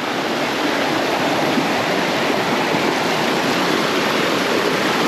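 A small river waterfall pouring steadily with a pretty strong flow, a loud, even rush of water.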